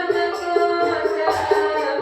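Hadrah-style sholawat music: a melody of held, stepping notes over steady frame-drum (rebana) and jingle percussion.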